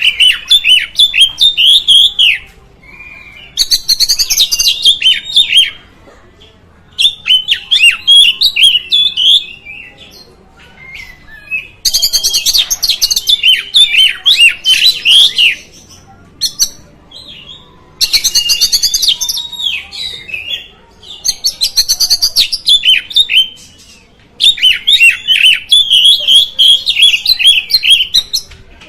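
Oriental magpie-robin (kacer) singing in about seven loud phrases of rapid, varied whistled notes, with pauses of a second or two between them.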